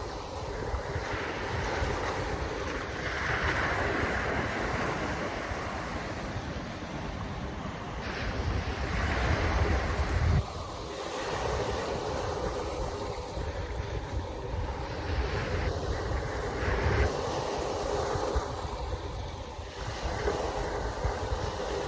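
Waves washing and surging, with wind gusting on the microphone in low rumbles; the wash swells and fades every few seconds.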